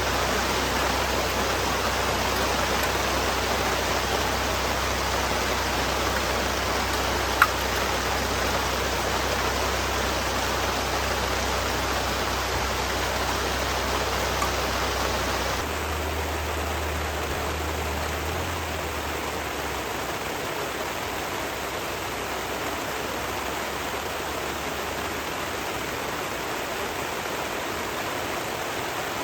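Steady rushing of water, heavy rain and river flow blending into one even noise, with a single sharp click about seven seconds in. About halfway the sound abruptly turns duller and quieter.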